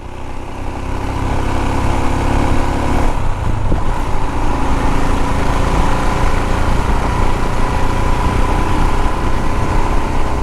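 Royal Enfield Himalayan's single-cylinder engine running steadily while riding on the road, with a heavy low rush of noise. The sound swells over the first couple of seconds, and the engine note shifts about three seconds in.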